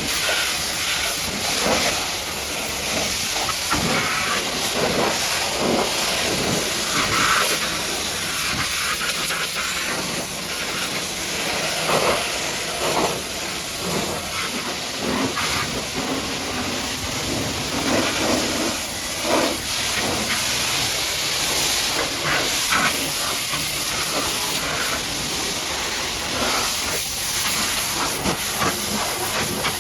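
High-pressure washer jet spraying mud off a truck: a loud, steady hiss of water that swells and dips as the spray moves over the surfaces.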